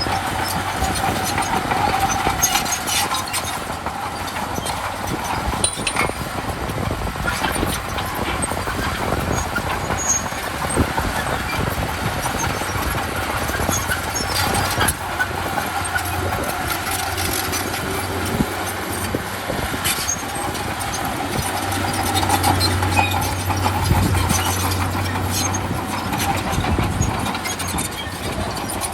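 Komatsu D31P crawler bulldozer working: its diesel engine runs steadily, with scattered clanks and knocks throughout.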